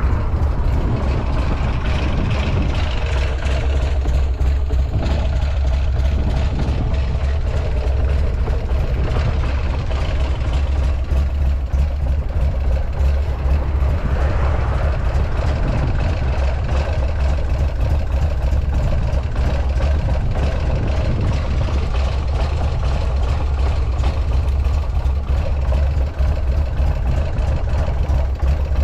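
Buell X1 Lightning's air-cooled V-twin engine idling steadily, presented by the seller as running free of abnormal noises.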